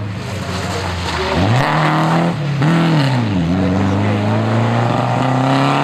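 Historic rally car engine at speed: it holds a steady note, then about a second and a half in the revs jump up, drop, rise and fall again, and then climb steadily as the car accelerates.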